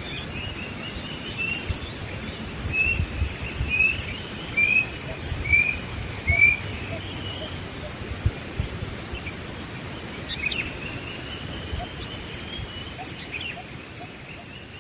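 Wild birds calling in the open: a series of short chirps repeated about once a second, with a few higher single notes, over a steady background hiss. The sound slowly fades near the end.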